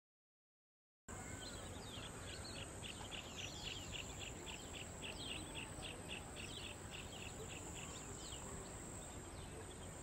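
A bird calling in a fast series of short, falling notes, about three a second, over a steady high-pitched whine and low background noise; the sound starts suddenly about a second in, and the calls thin out near the end.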